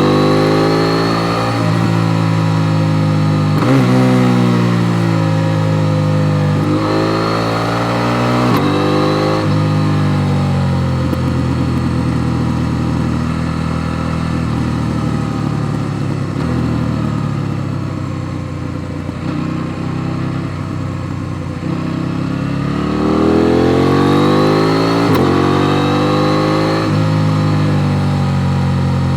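KTM 890 Duke R's parallel-twin engine accelerating through the gears. The revs climb and drop sharply at upshifts about four and nine seconds in, hold lower and steadier through the middle, then climb again with another shift near the end.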